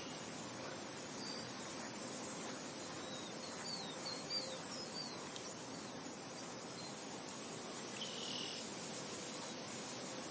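Steady wind noise, with a few short high chirps about four seconds in.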